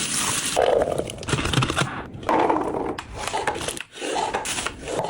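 Food containers and packaging handled and set down while restocking a fridge: irregular taps, knocks and clicks with short bursts of rustling and scraping.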